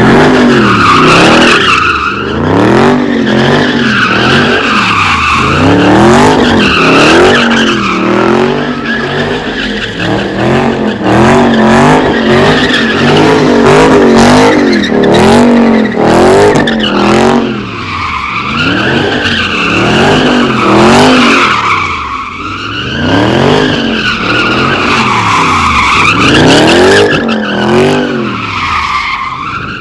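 A car doing donuts: its engine revs up and down over and over while the rear tyres squeal continuously.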